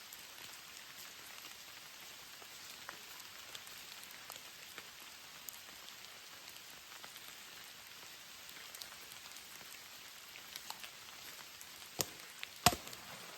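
Steady rain falling, with scattered drop taps. Near the end come two sharp knocks less than a second apart, the second louder.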